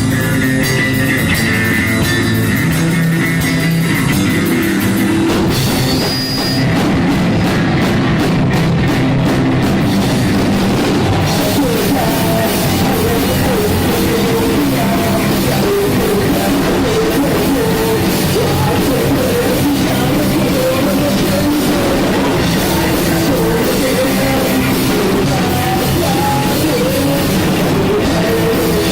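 Punk rock band playing live: drum kit, distorted electric guitar and bass at full volume, the song kicking in right at the start after a few stick clicks.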